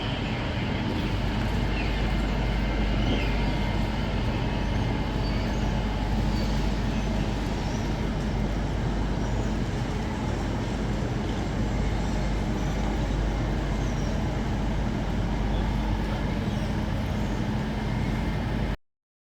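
Railway station background noise: a steady low rumble and hum of trains at the platforms, cutting off suddenly near the end.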